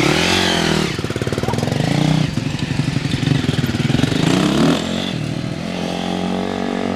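Four-stroke dirt bike engine running hard and revving, its pitch climbing and falling again and again as the throttle and gears change. It eases to a steadier, lower note about five seconds in.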